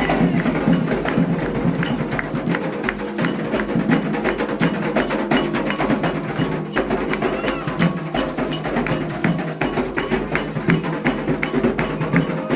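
Afro-Brazilian ritual percussion: hand drums with a struck bell playing a fast, dense, unbroken rhythm.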